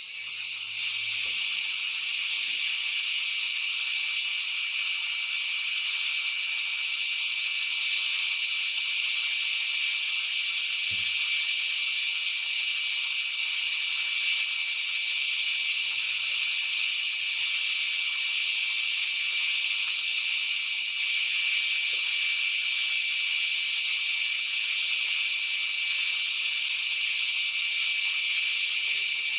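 A steady hiss with a thin, high, unchanging whine in it.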